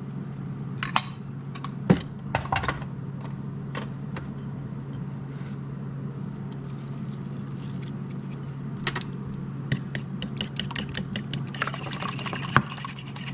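Light clicks and clinks of a utensil against a bowl while the egg-and-buttermilk mix is seasoned and stirred, with a quick run of clicks about two-thirds of the way through, over a steady low hum.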